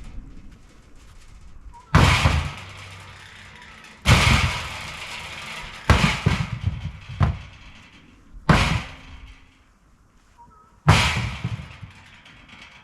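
Firewood being split by hand: five heavy blows on wood, roughly two seconds apart, each a sharp crack with a short trailing decay, and a lighter knock between two of them.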